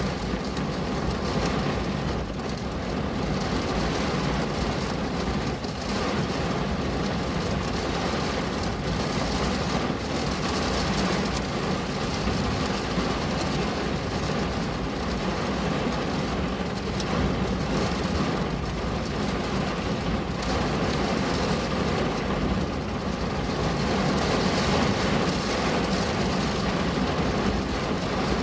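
Steady rain on a window glass, an even hiss with a low rumble underneath and faint drop taps.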